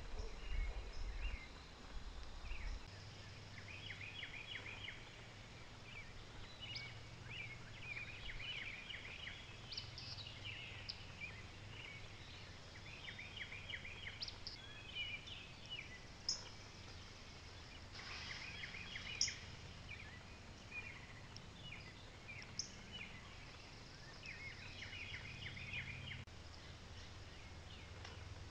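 Birds singing faintly: short clusters of quick down-slurred notes, repeated every few seconds, with a few brief higher notes between them, over a steady low background hum.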